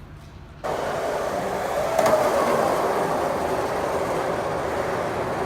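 Skateboard wheels rolling on pavement, a steady rumble that starts suddenly about half a second in, with a single sharp click about two seconds in.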